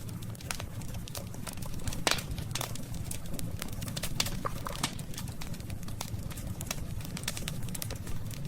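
Wood campfire crackling: irregular sharp pops and snaps over a steady low rumble, the loudest pop about two seconds in.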